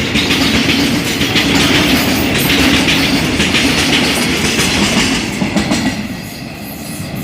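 A train running past, its wheels clattering over the rail joints with a steady rumble; the sound drops off somewhat about six seconds in as the train moves away.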